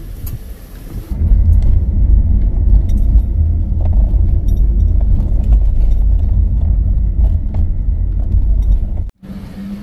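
Loud, gusting wind buffeting the microphone as a deep, irregular rumble. It sets in about a second in and cuts off abruptly near the end.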